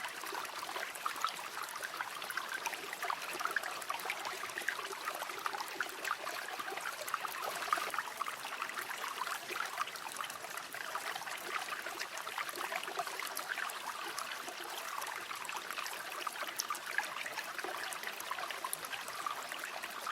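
River water flowing: a steady babble of running water with many small gurgles and splashes.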